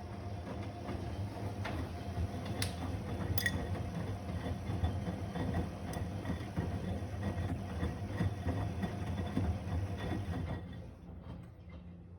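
AEG ÖKO Lavamat 72620 washing machine running its wash cycle: a steady low hum with scattered clicks and knocks. The noise drops off about ten and a half seconds in.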